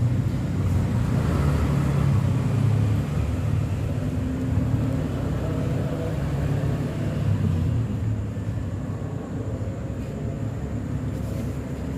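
A motor engine running steadily, a low rumble that comes in suddenly.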